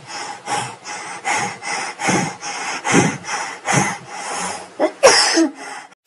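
Rhythmic rasping strokes, two to three a second, like a saw or rasp drawn back and forth, with one louder stroke about five seconds in.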